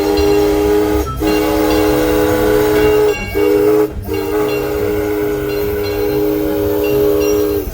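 A train's multi-note chime whistle blowing long, loud blasts, broken by three short gaps and cutting off near the end, over a low, regular rumble.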